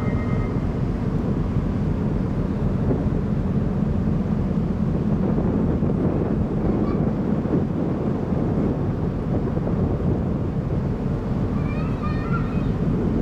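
Steady rumble of a car ferry under way, its engines and the wash of water blending, with wind buffeting the microphone. Faint voices come in near the end.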